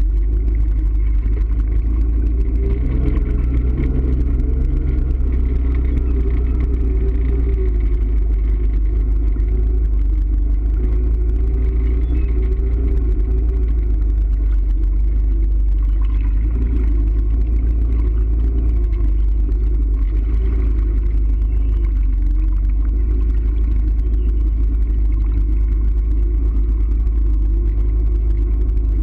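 Motor vehicle running steadily while driving along, a constant low rumble with an engine note that wavers slightly.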